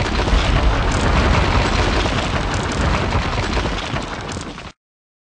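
Intro sound effect of a wall breaking apart: a loud, noisy crash with a deep rumble, easing off slightly before it cuts off suddenly about four and a half seconds in.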